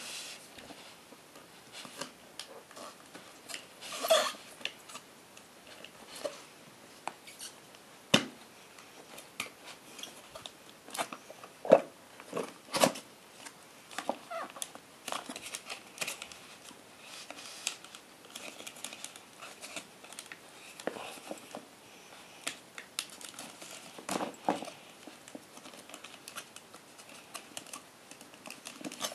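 Hands opening and handling retail packaging, with scattered sharp clicks and taps and short bursts of plastic and cardboard rustling.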